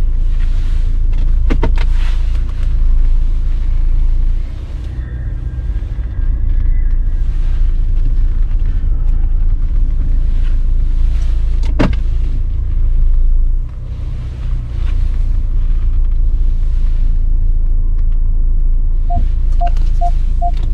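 Steady low rumble of a Volvo V60 D4 diesel car driving, heard from inside the cabin, with a few sharp clicks and four short beeps near the end.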